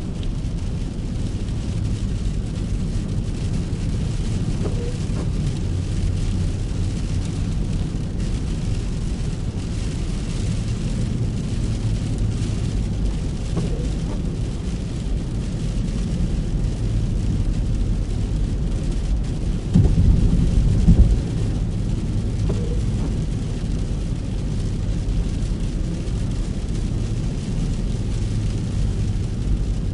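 A car driving in rain: a steady low engine and road rumble under a light hiss of rain. About two-thirds of the way through there is a louder low rumble lasting about a second.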